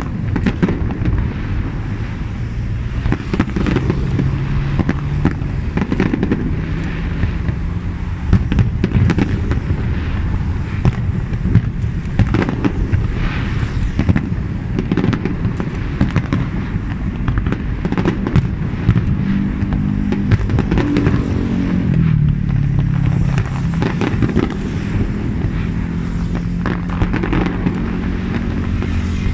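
Fireworks going off in rapid, irregular bangs and crackles. Beneath them runs a steady rumble of passing motor traffic, with an engine tone that slides down and back up about two-thirds of the way through.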